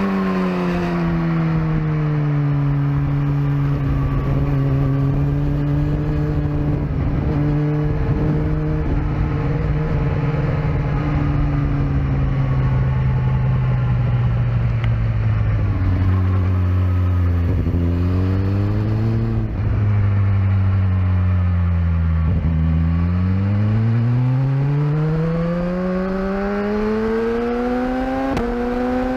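Sport bike engine lapping a race track: the engine note falls slowly as the bike slows for a corner, rises briefly a little after the middle, then climbs steadily in pitch near the end as it accelerates out.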